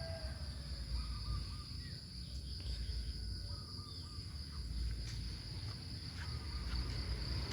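Tropical forest ambience: a steady high-pitched insect drone, with a few faint bird chirps and a low rumble underneath.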